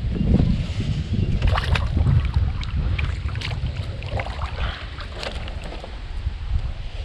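Wind buffeting the microphone in a steady low rumble, over water splashing and a few light knocks around a kayak.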